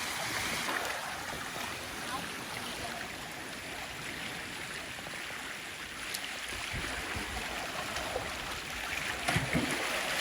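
Sea water washing over and draining between rocks on the shore: a steady hiss of surf, with a few dull low bumps.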